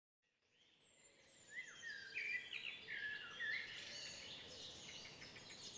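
Songbirds singing, faint, fading in about a second and a half in: several overlapping short chirps and quick falling whistles.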